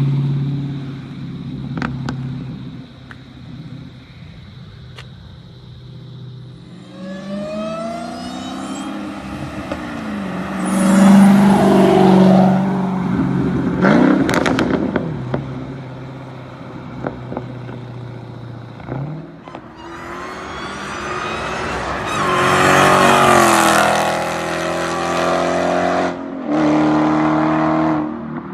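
Dodge Challenger Hellcat's supercharged V8, mufflers deleted, running low then accelerating hard several times, its pitch climbing steeply with each pull and dropping back between them.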